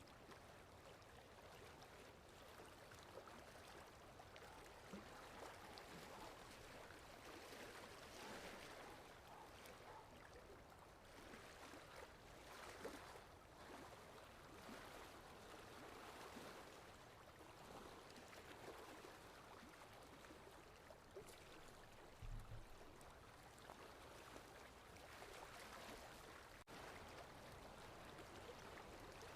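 Faint sea waves washing: a steady soft rush of water that swells and eases every few seconds.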